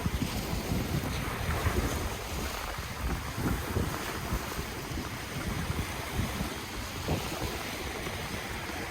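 Ocean waves washing on the shore, with wind buffeting the microphone in irregular low gusts.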